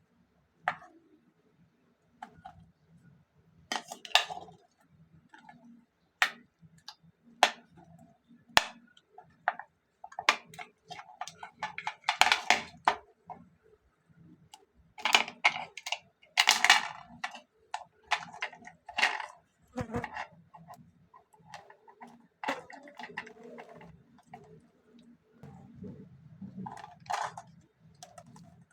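Irregular small clicks, taps and scratches of tools and fingers handling the plastic parts of wireless earbuds during a battery-change repair, busiest in the middle.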